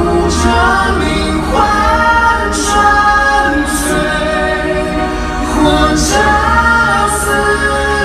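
Live concert pop music: long sung vocal phrases over a steady deep bass, a new phrase starting about a second and a half in and again past the middle.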